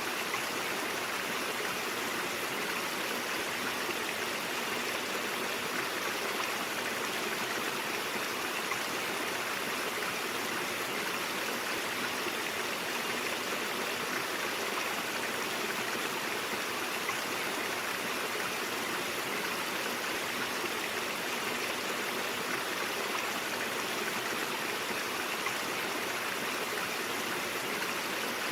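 Stream water flowing and babbling over rocks in a steady, unbroken rush.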